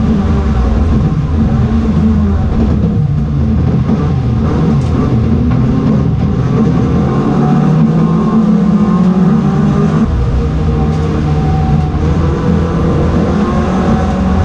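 Ford Fiesta racing car's engine running hard under load, its pitch rising and falling as it revs up and eases off through the gears.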